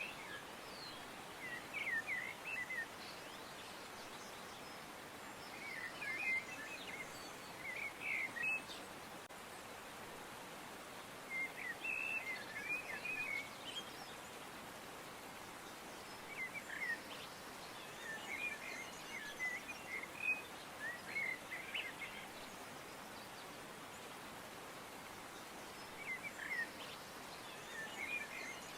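Small birds chirping in short, quick clusters every few seconds over a steady, faint hiss of outdoor ambience.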